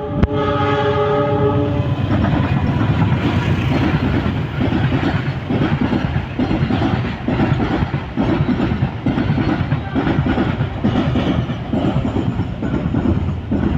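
A locomotive horn sounds one steady chord until about two seconds in, then a long train rumbles close past with its wheels clattering over the rail joints.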